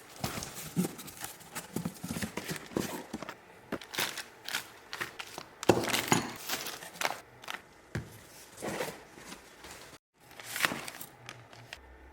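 Irregular clicks, knocks and rustling as tools and parts are handled, with one louder knock about six seconds in and a brief silence near ten seconds.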